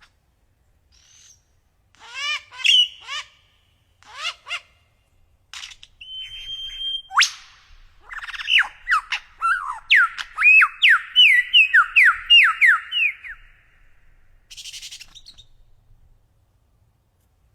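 A songbird singing: scattered short chirps and sweeping calls, then a sharp rising whistle, followed by a fast, loud run of sharp up-and-down notes, about four a second, that fades out near the end.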